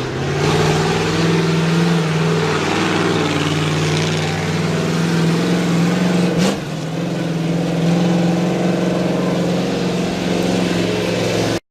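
Large vehicle engine running steadily at a held speed, dipping briefly and picking up again about six and a half seconds in.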